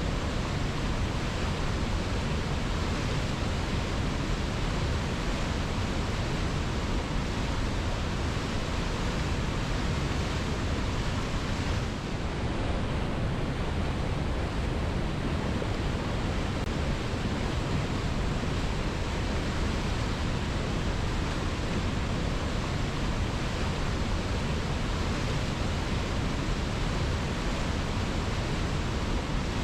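Waterfall: a steady, unbroken rush of water tumbling over rocks.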